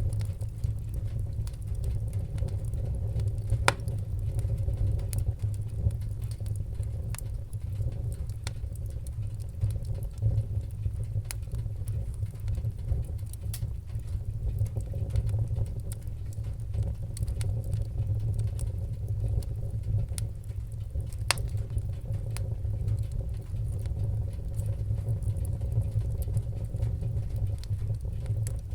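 Wood-burning fire crackling: a steady low rumble of the burning fire with a sharp pop or snap every few seconds.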